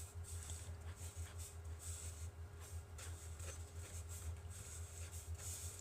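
Quiet room tone: a steady low hum with a faint higher tone, and scattered faint ticks and rustles of small items being handled.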